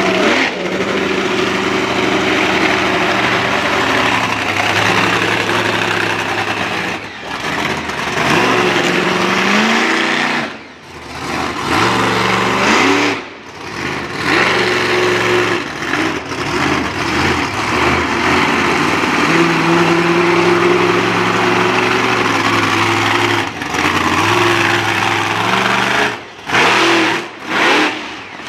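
Monster truck engine running hard under heavy throttle, its pitch rising and falling. The throttle is lifted sharply about ten seconds in and again a few seconds later, with several quick throttle blips near the end.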